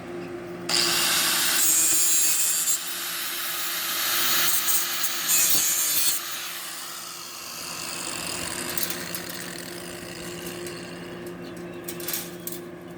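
Gasless flux-core arc welding: a loud, crackling hiss that starts about a second in and surges unevenly for several seconds, then breaks into scattered sharp crackles near the end. A steady low hum runs underneath.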